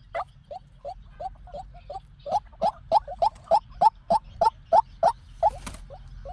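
White-breasted waterhen calling: a running series of short, rising notes, about three a second, some loud and some quieter in between.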